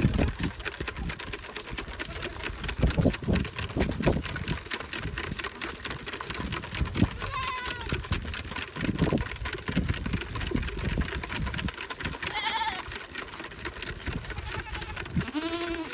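Goats bleating in short quavering calls, one about halfway through, another a few seconds later and more near the end, over a constant crackle of clicks and scattered low thumps.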